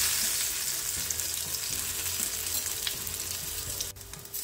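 Masala-coated brinjal slices sizzling as they fry in hot mustard oil in a pan: a steady frying hiss with a few faint ticks. The hiss drops out briefly about four seconds in.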